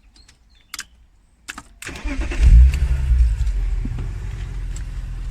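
A few clicks, then about two seconds in the BMW E36 M3 Evolution's 3.2-litre straight-six, fitted with a Supersprint exhaust, cranks briefly and catches, flaring up in revs before settling into a steady idle.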